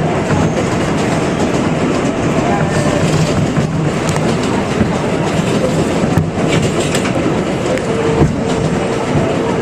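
New York City 7 subway train running at speed between stations: a steady rumble with the wheels clacking over rail joints, and a faint steady tone coming in near the end.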